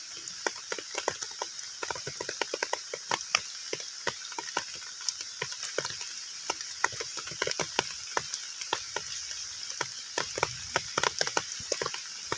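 Rain falling on a pond surface: many irregular drops plinking and pattering on the water over a steady hiss.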